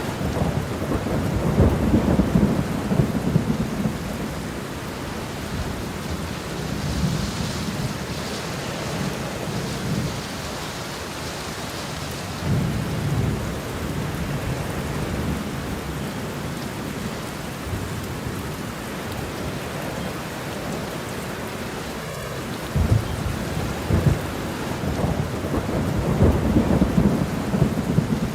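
Steady rain falling, with low rolling thunder rumbling near the start, briefly in the middle, and again more strongly near the end.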